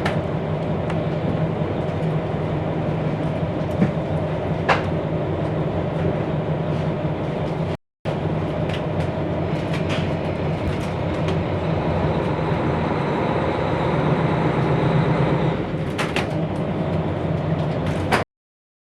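Diesel railcar engine running with a steady low hum and occasional clicks and knocks. The engine grows louder for a few seconds in the second half, with a faint high whine. The sound breaks off for a moment a little before halfway and cuts off abruptly near the end.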